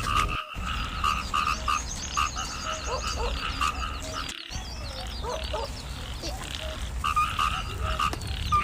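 A chorus of frogs croaking in short, rapidly repeated pulses, with thin high chirps above them in the middle. The sound cuts out for an instant twice.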